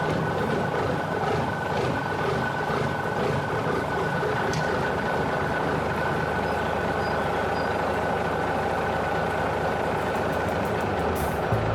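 Tractor engine running steadily, with a thin high whine over it.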